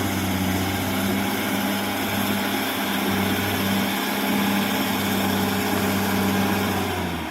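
Caterpillar D6R XL bulldozer's diesel engine running steadily at a constant speed, with a low, even hum and mechanical noise.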